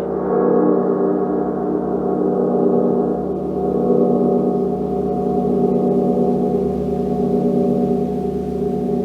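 A large gong resonating in a sustained, shimmering wash of many overlapping tones, kept sounding by continuous soft playing, with the highest overtones slowly fading over the seconds.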